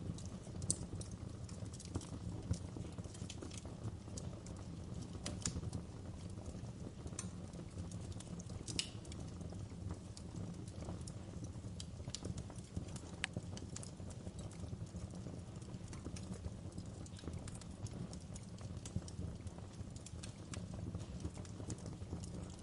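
Wood fire burning in a fireplace: irregular sharp crackles and pops over a steady low rush of flames.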